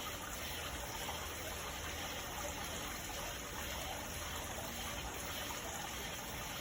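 Garden fountain running, water splashing and trickling steadily.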